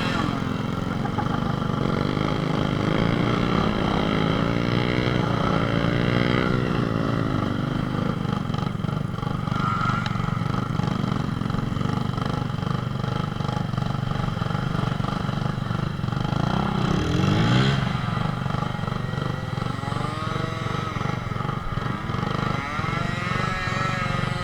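Small motorcycle engines running off-road, their pitch rising and falling with the throttle, with a sharp rev up and back down about seventeen seconds in.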